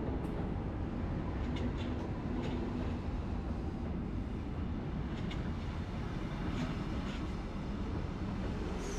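SNCB class 96 electric multiple unit rolling slowly past along the platform: a steady low rumble with a few light clicks.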